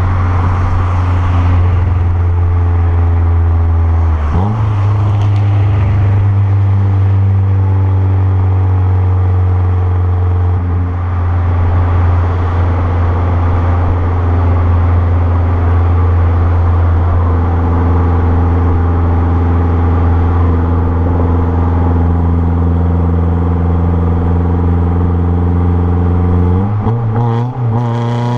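Renault Clio 1.6 16V (K4M) four-cylinder engine running through a straight-through 2-inch exhaust, holding a steady engine speed. The note shifts briefly about four seconds in and begins to climb in pitch just before the end.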